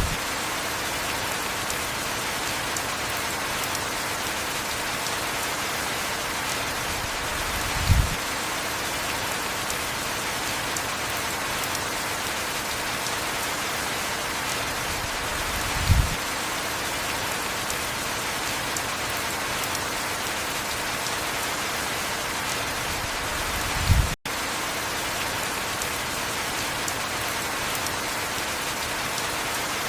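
Heavy rain falling steadily, an even hiss. A brief low thump comes about every eight seconds, and the sound cuts out for an instant about two-thirds of the way through.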